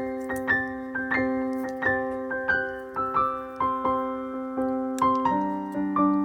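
Background piano music: a gentle melody of single struck notes over held chords, with the harmony shifting to a lower chord about five seconds in.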